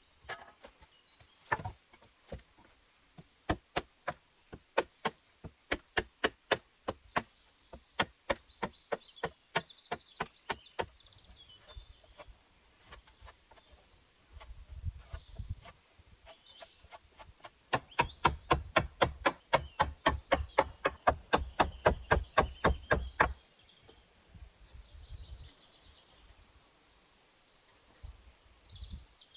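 A hand tool striking repeatedly in steady blows, about two to three a second, then a quicker run of about four a second with a dull thud under each blow, which stops suddenly. Birds chirp in the background.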